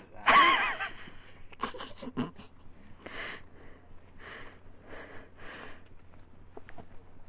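A hiker's heavy breathing while climbing over rocks, in breathy puffs every half second to a second. It opens with a short, loud wavering vocal sound, and a few sharp clicks of boots on rock follow about two seconds in.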